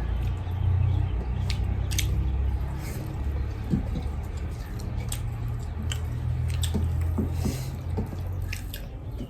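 Close-miked eating sounds: wet chewing and scattered lip smacks, over a steady low hum.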